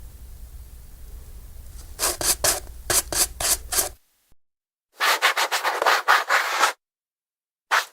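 A brush scrubbing a shoe in quick back-and-forth strokes, about four or five a second. The strokes come in three short runs with brief pauses between them, starting about two seconds in.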